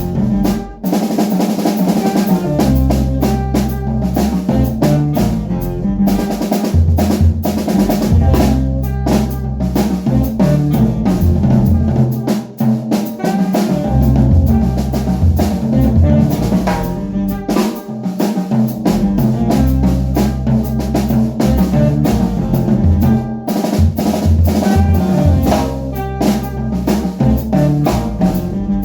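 Jazz band playing live, the drum kit prominent with snare hits and rimshots over held bass notes and other pitched instruments.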